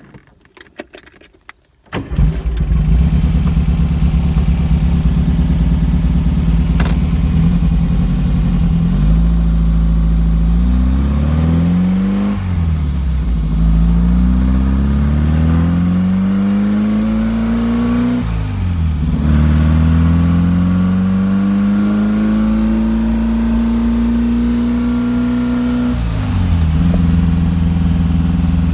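Beck Spider's engine catching about two seconds in after a few light clicks, then running loud and steady. It pulls away with the revs climbing and falling back sharply several times as the car shifts up through the gears.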